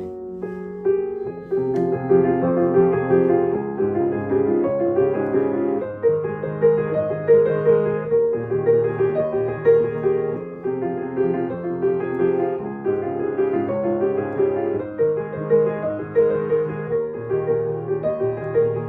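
Acoustic piano played in the middle register: a continuous flow of chords with a melody over them, notes ringing on into one another.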